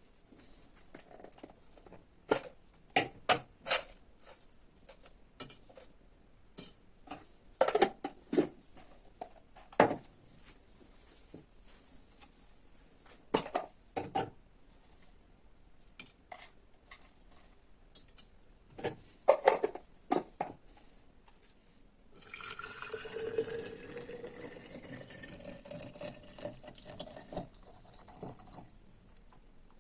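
Crockery and utensils clinking and knocking in scattered sharp strikes, then about two-thirds of the way in, liquid is poured steadily into a cup for several seconds, the pouring tone rising as the cup fills.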